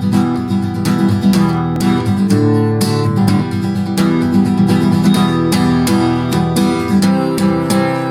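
Acoustic guitar strummed in a steady rhythm, chords changing every second or so: the instrumental intro of a song.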